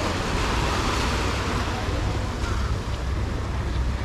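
Sea washing onto the beach, with wind rumbling on the microphone.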